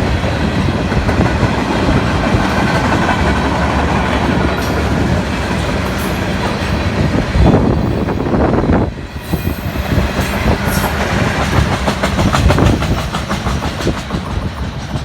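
Freight cars of a CSX local freight train rolling past, wheels clacking over rail joints, the clicks coming thick and fast in the second half, over a steady rush of wind and rolling noise.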